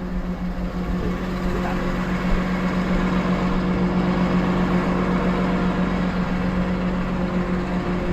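A truck's diesel engine running steadily at idle, a constant low hum with a rumble beneath it.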